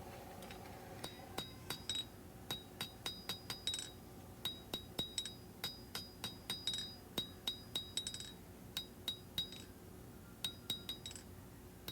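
Hand hammer striking hot 1095 high-carbon steel on an anvil while shaping a knife's handle. The ringing blows come in runs of several, two to three a second, with short pauses between runs.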